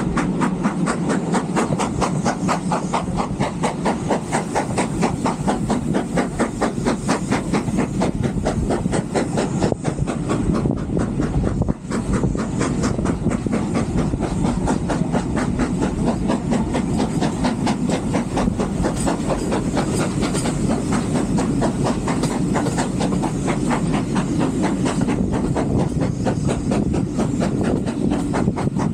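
Steam train running along the line: a rapid, even beat over a steady hiss and the clatter of the wheels on the rails.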